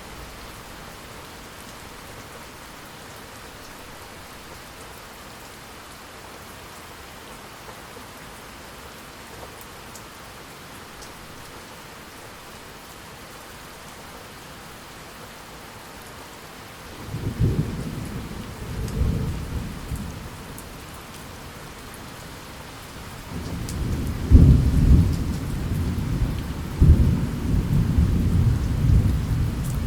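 Steady rain falling, with thunder rumbling in about halfway through, fading, then rolling back louder near the end with several heavy peaks.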